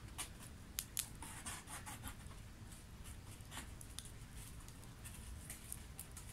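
Sparse crackles and sharp pops of burning wood in a Swedish torch, with a few short hissing, scratchy bursts about a second in, over a low steady rumble.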